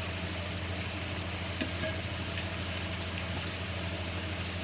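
Sliced beef sausages, onion and prawns sizzling steadily in oil in a frying pan while they are stirred, with a metal spoon clicking against the pan about a second and a half in and once more, fainter, a little later.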